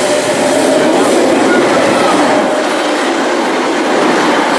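A train running along the track at close range, with a loud, steady rail noise.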